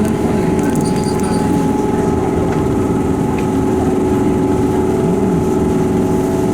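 Eizan Electric Railway electric train heard from the cab: a steady hum with a few constant tones from its electrical equipment.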